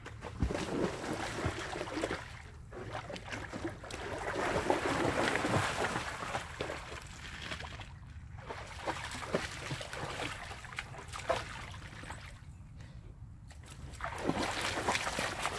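A German Shepherd wading around in a shallow pool, water splashing and sloshing in uneven spells as it searches the water, louder near the middle and again near the end.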